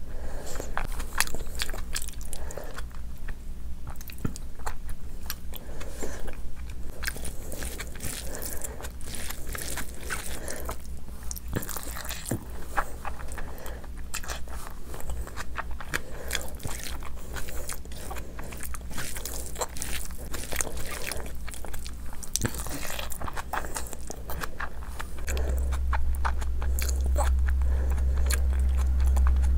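Close-miked chewing and biting of rice and curry, with frequent wet mouth clicks and smacks coming at an irregular pace. A steady low hum runs underneath and grows louder for the last few seconds.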